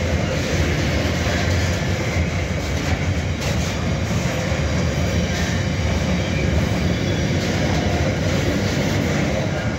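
Container flat wagons of a long freight train rolling past at speed: a steady, loud noise of wheels running on the rails.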